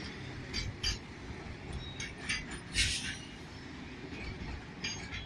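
Freight train wagons rolling slowly past: a steady low rumble of steel wheels on the rails, broken by irregular sharp metallic clanks and knocks, the loudest about three seconds in.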